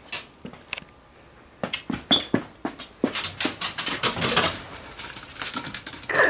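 A dog making a run of short clicks and scuffs, few at first and then coming thick and fast from about three seconds in.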